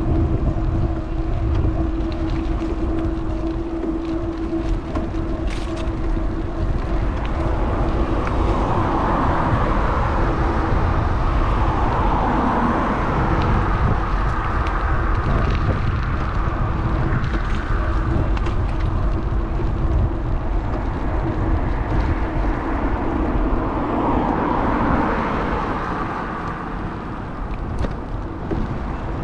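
Wind buffeting a moving bike-mounted action camera's microphone, with road traffic going by: passing vehicles swell and fade about three times. A steady hum fades out about a third of the way through.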